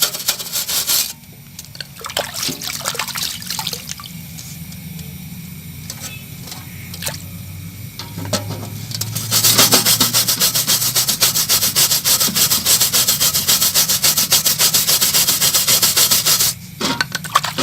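Rapid back-and-forth rubbing strokes, like hand sanding, in cleaning up a welded refrigerator part. The rubbing breaks off about a second in, leaving scattered light clicks and taps, then resumes loudly about nine seconds in and stops briefly near the end.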